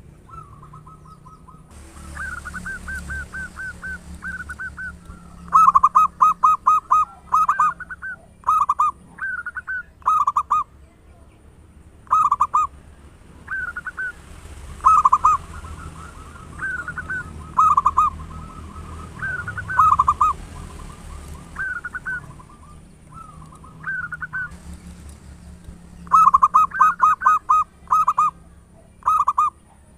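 Zebra doves (perkutut) cooing in their loud, gacor song: quick runs of short, clipped coo notes, repeated every second or two, with longer rolling coos between them.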